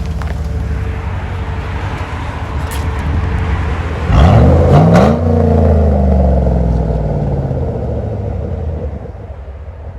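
2008 Chevy Tahoe's 5.3L V8 exhaust, muffler deleted with the resonator kept, rumbling steadily, then revving up sharply about four seconds in, its pitch falling back over the following few seconds.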